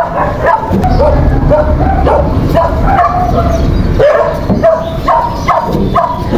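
Dogs barking and yipping over and over, short high calls about two or three a second.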